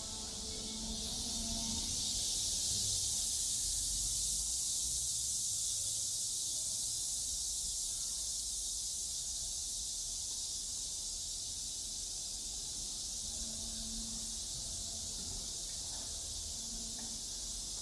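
Cicada chorus: a steady, high, hiss-like drone that swells over the first couple of seconds and then holds, with a low rumble underneath.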